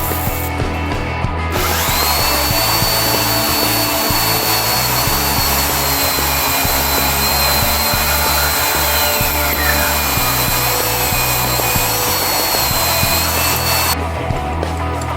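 A power tool running steadily with a high whine, starting about a second and a half in and stopping near the end, over background music with a steady beat.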